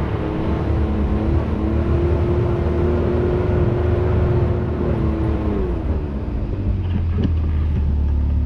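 Can-Am Maverick X3's turbocharged three-cylinder engine running under light throttle as the machine crawls along; revs rise slightly about a second and a half in, hold steady, then fall near the middle and settle to a lower rumble.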